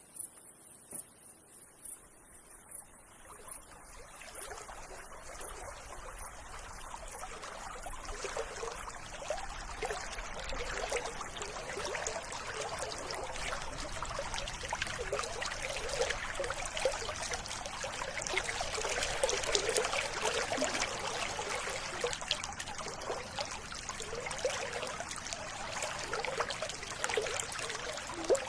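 River water trickling and babbling, fading in over the first few seconds and then running steadily with many small gurgles. A faint, fast high-pitched pulsing at the start fades out.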